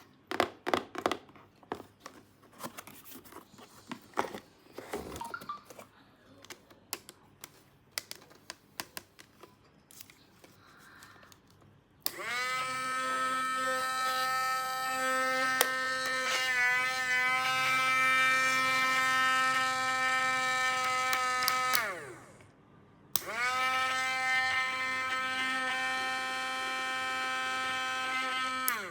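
Small plastic pieces clicking and tapping for about twelve seconds, then a small electric motor runs with a steady buzzing hum for about ten seconds, winds down with a falling pitch, and starts again for about six more seconds before stopping.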